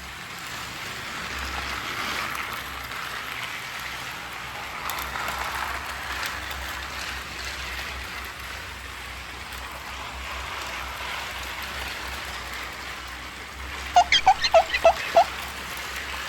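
Battery-powered motorized toy train running on plastic track, a steady whirring rattle. Near the end comes a quick run of about six short high notes.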